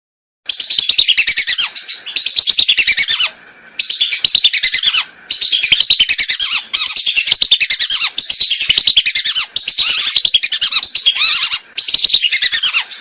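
Whistling ducks (belibis) calling in a lure recording: a string of loud, repeated phrases of fast, falling whistles, each about one to one and a half seconds long with short breaks between them.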